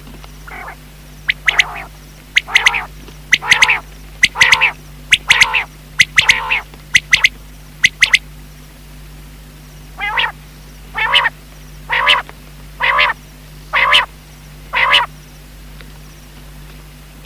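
Common quail calling: a run of short calls, each a sharp click followed by a brief note, about one a second, with a pause of about two seconds midway. A low steady hum runs underneath.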